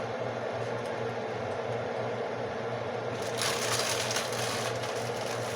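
Crisp tostada shells crackling and rustling as they are handled, over a steady low hum; the crackling gets louder about three seconds in.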